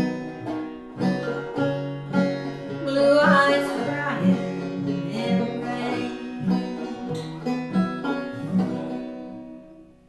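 Acoustic guitar playing the closing bars of the song, picking a steady pattern of bass notes and chords, with a sung note about three seconds in; the last chord rings and fades away near the end.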